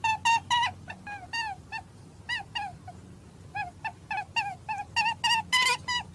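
Birds, several calling at once, giving short, repeated calls, a few each second, each dropping in pitch. The calls come thicker and overlap near the end.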